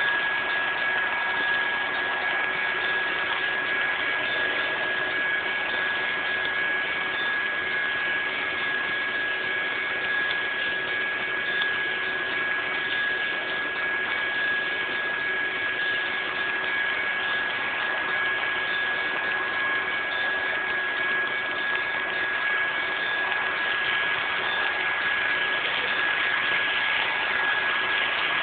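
HO scale model coal train running on a layout, a steady hiss with a constant high-pitched whine that does not change.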